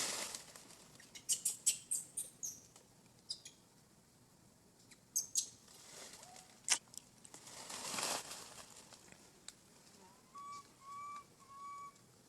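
Scattered sharp clicks and crackles, like rustling and snapping twigs, with a soft rushing swell about two-thirds through. Near the end come three short whistle-like calls, the first rising in pitch.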